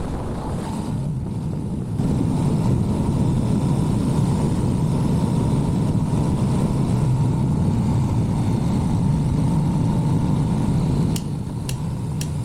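Motorcycle engine running under way with road and wind rush. It gets louder about two seconds in and eases back near the end.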